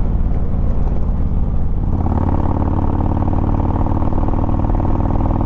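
Harley-Davidson Road Glide's V-twin engine running while riding; about two seconds in its note changes to a fuller, steady pitch as it pulls under throttle.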